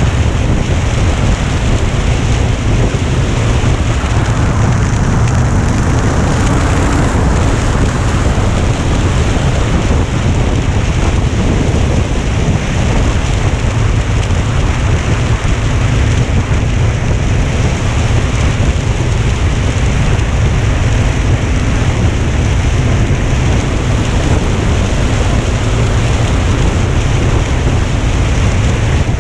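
Loud, steady wind rumble and rushing on the microphone of a bike in motion, a deep buffeting rumble under a hiss.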